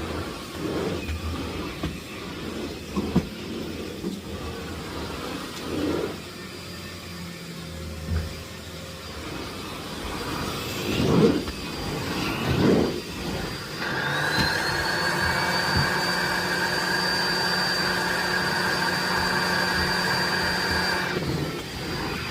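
Knocks and bumps of the Miele Blizzard CX1 cylinder vacuum being handled. About two-thirds of the way in, its motor spins up to a steady high whine, then cuts off abruptly shortly before the end.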